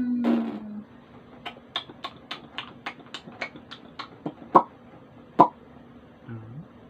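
A baby's long vocal sound tails off in the first second, then a quick run of light clicks or taps, about three or four a second, with two louder knocks near the end.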